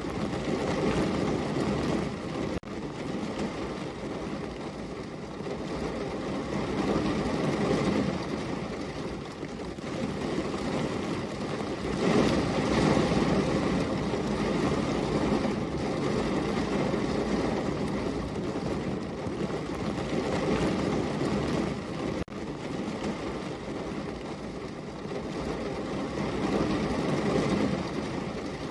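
Heavy rain falling, a dense steady rushing that swells and eases every few seconds, with two brief dips in level.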